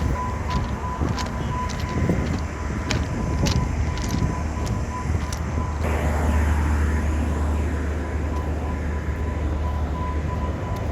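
Train running: a steady low rumble with sharp clicks through the first half, turning noisier and rougher about halfway through, under a thin steady high tone.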